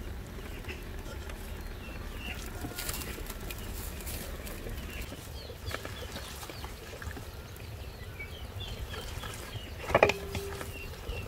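Birds chirping in trees around an outdoor yard, over a low steady background hum. About ten seconds in there is one louder, sharp call with a short held note.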